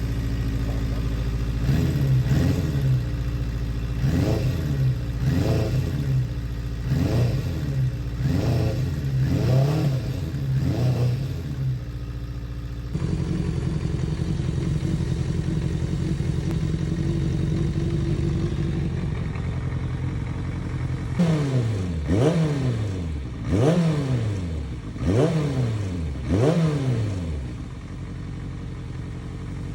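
Kawasaki ZRX400's inline-four engine running on its cleaned stock carburettors and being blipped: repeated quick revs up and back down to idle. About halfway through it settles to a steady idle, then near the end it is blipped about five more times.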